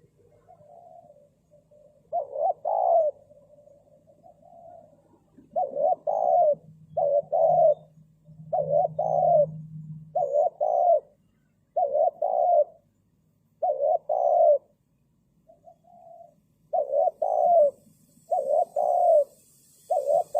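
Spotted dove cooing over and over, a string of short double coos about one to two seconds apart: a decoy dove calling to wild doves.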